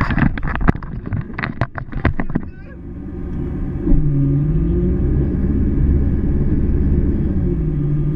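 A burst of sharp, irregular clatter for the first couple of seconds. Then the ski boat's inboard Chevy 350 V8 takes over with a low, steady rumble, jumping louder just before four seconds in. After that its pitch dips and rises with the throttle.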